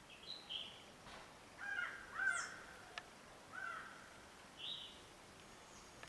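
Birds calling in short separate calls, the loudest about two seconds in, with a single sharp click near the middle.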